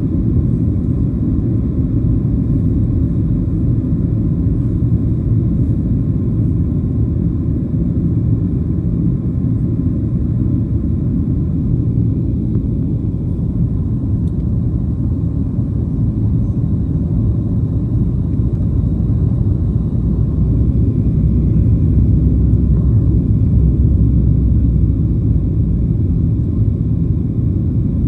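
Steady low cabin rumble inside a Boeing 737-700 in flight, from its CFM56-7B jet engines and the airflow over the fuselage. It swells slightly about two-thirds of the way through.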